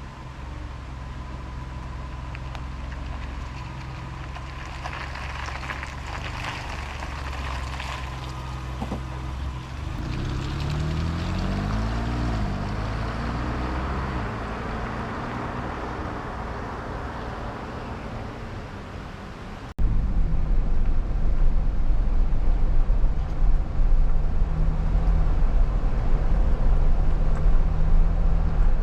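Ford Bronco's engine running steadily, then rising and falling in pitch through gears as it pulls away about ten seconds in. About twenty seconds in it jumps to a louder, steady low rumble of engine and road noise while driving.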